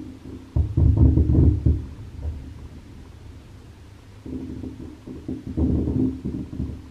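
Aerial firework shells bursting, heard as dull low booms and rumbling: a cluster of loud bursts about half a second in, then another round of booms from about four to six seconds in.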